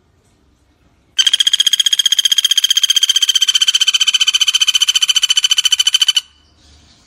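Pelatuk bawang (common flameback woodpecker) giving a loud, fast rattling trill of even notes, held steady for about five seconds, starting about a second in and stopping abruptly.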